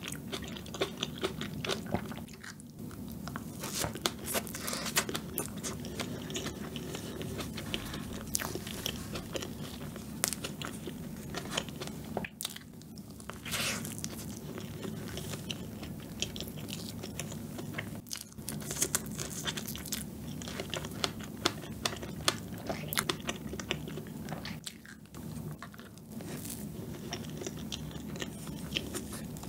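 Close-miked chewing and mouth sounds of someone eating soft fresh cream cake with sponge from a wooden spoon, full of irregular sharp smacking clicks.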